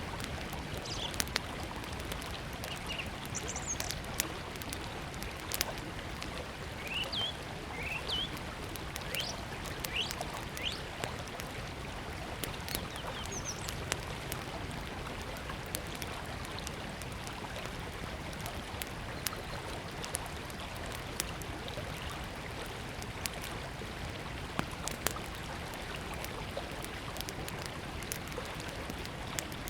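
Small wood fire crackling with frequent sharp pops, over the steady rush of a river. A few short bird chirps come in the first half.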